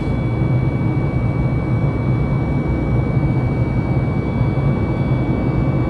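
Boeing 737 MAX 8 heard from inside the passenger cabin: a steady, even roar of the CFM LEAP-1B engines and airflow, with a thin steady whine on top.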